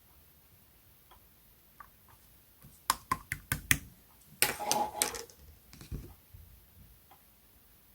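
Clear slime being squeezed and pressed by hand: a quick run of sharp clicking pops about three seconds in, then a denser crackling squish a second later.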